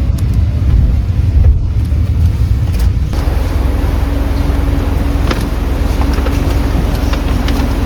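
A moving vehicle rumbling steadily, with a steady hum coming in about three seconds in.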